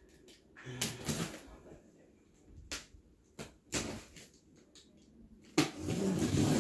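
Several short knocks and rustles of cardboard firework boxes being handled, with a louder, pitched, whine-like sound setting in near the end.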